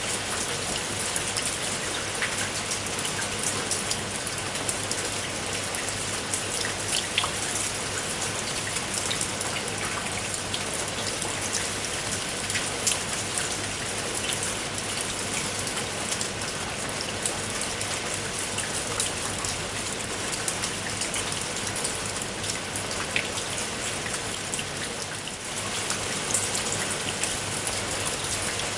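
Steady rain falling, with many individual raindrops ticking sharply on a surface over an even hiss of rainfall; it eases briefly for a moment about 25 seconds in.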